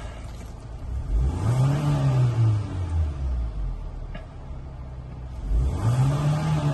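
Hyundai Santa Fe 2.5 T-GDi turbocharged four-cylinder engine, heard from inside the cabin, idling in park and briefly revved twice. Each rev rises and falls over about two seconds; the first comes about a second in and the second starts near the end. The inspector judges it to run evenly, with no extraneous noises or vibrations.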